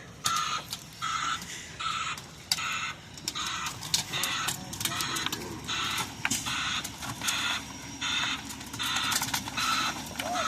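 Reversing beeper of a truck at a concrete pour, sounding a steady beep about every three-quarters of a second over a low running engine, with a few sharp knocks.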